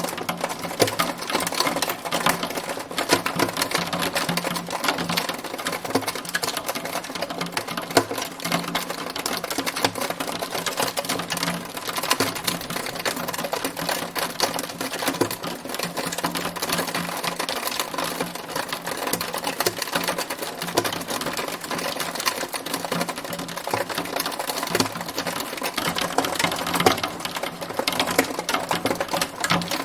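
Hail falling steadily, hailstones striking a hard surface in a dense, unbroken clatter of small ticks.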